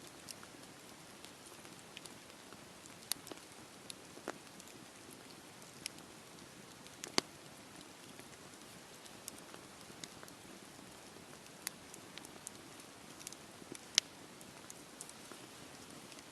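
Wood fire burning in a fireplace: a soft steady hiss with scattered sharp crackles and pops, two of them louder, about seven and fourteen seconds in.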